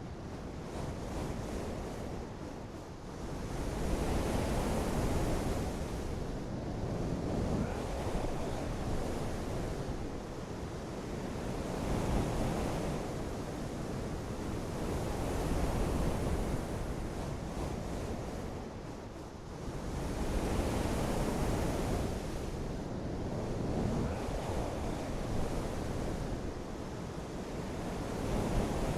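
Rushing outdoor nature ambience, a soft noise of wind or surf that swells and fades every three to four seconds.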